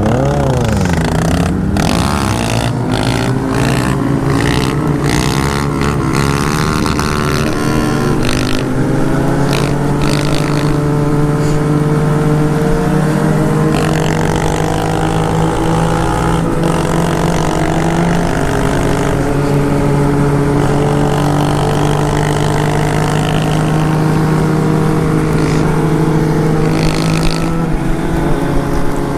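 Motorcycle engine under way: revving up and down through the gears for the first several seconds, then running at a fairly steady pitch while cruising.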